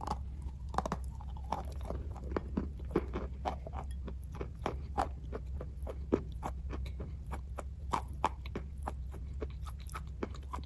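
A person chewing kaju katli (cashew fudge) close to the microphone: irregular short mouth clicks and smacks, several a second, over a steady low hum.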